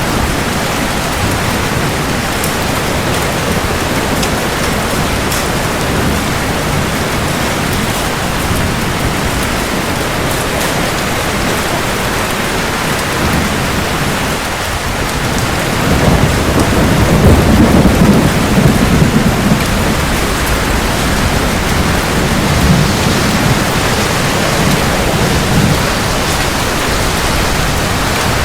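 Steady heavy rain, with a roll of thunder rumbling in about halfway through and fading a few seconds later.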